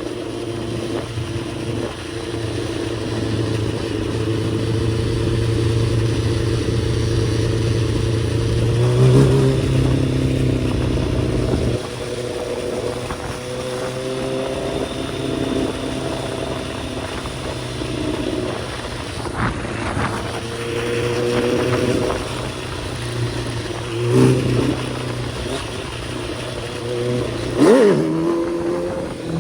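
Kawasaki ZX-10R inline-four sport-bike engine under way, revving up through the gears. Its pitch climbs and then drops at each shift, several times over.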